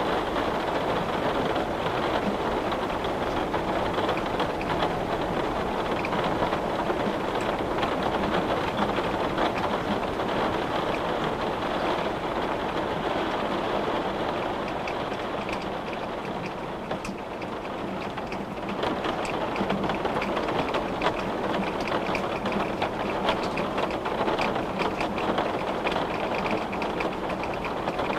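Steady rain falling on a window, a dense hiss with many small drop ticks, easing slightly just past the middle.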